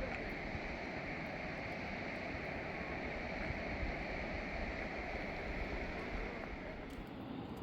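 Steady rushing noise without pitch, which thins and quietens slightly about seven seconds in.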